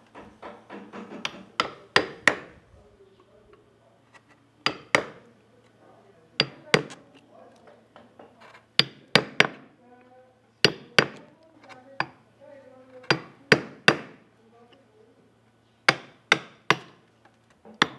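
A mallet striking a carving chisel into wood: sharp knocks, mostly in twos and threes about half a second apart, with pauses of a second or two between groups.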